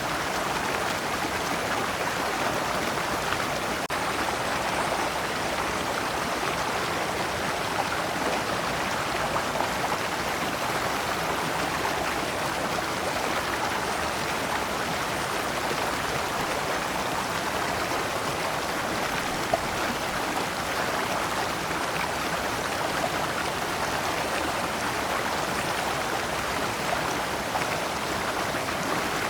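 Shallow rocky stream running steadily over stones in small cascades, a continuous even rush of water.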